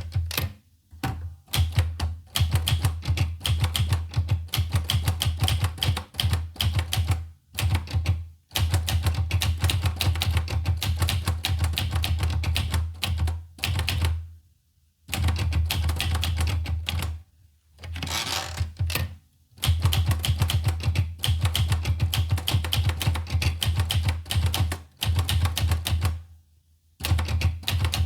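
Olivetti Lettera 25 manual typewriter typing in fast runs of keystrokes, broken by a few short pauses, with a longer rasping sweep about two-thirds of the way through.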